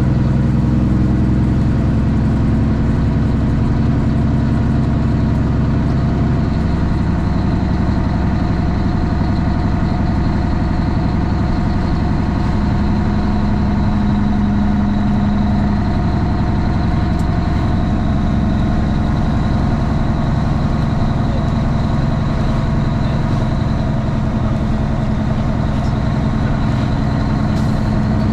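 Straight-piped Cummins ISX inline-six diesel in a Kenworth T800 running steadily, heard from inside the cab, with only slight changes in engine pitch.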